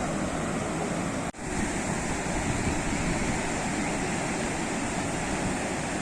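Ocean surf: a steady wash of breaking waves, with a brief cut in the sound just over a second in.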